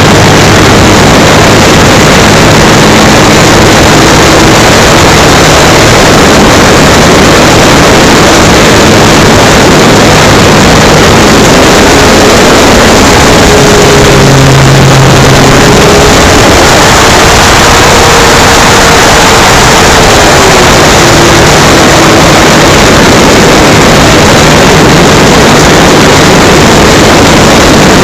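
Electric motor and propeller of an FMS Cessna 182 RC model plane, heard from a camera mounted on the plane: a loud, steady rushing noise of propeller wash and airflow. A faint whine rises in pitch about halfway through and falls back a few seconds later as the throttle changes.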